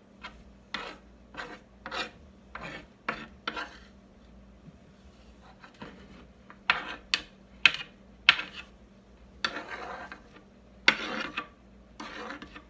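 A kitchen utensil scraping repeatedly against a pan or bowl in short strokes, about two a second at first, with a few longer scrapes near the end.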